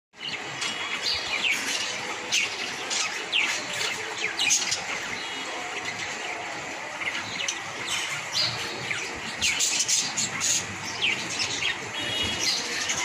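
Budgerigars chirping and chattering, many short falling chirps in quick succession over a steady hiss.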